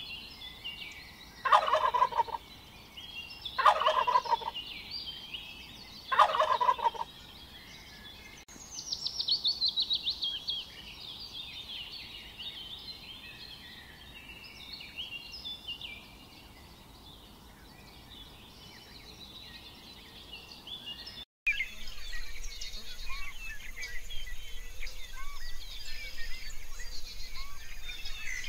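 Male turkeys gobbling three times in the first seven seconds, each gobble a short rapid rattling call. After that come small birds chirping, with a quick falling trill about nine seconds in and steady high chirping through the rest.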